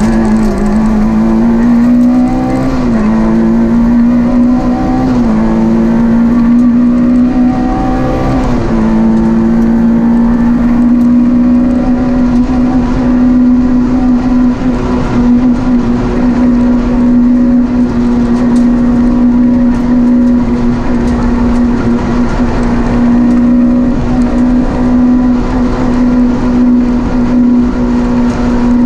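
Rally car engine heard from inside the cockpit, accelerating hard through the gears. Its pitch climbs and drops back at each upshift, about 3, 5 and 8 seconds in, then holds steady and loud as the car runs flat out along a straight.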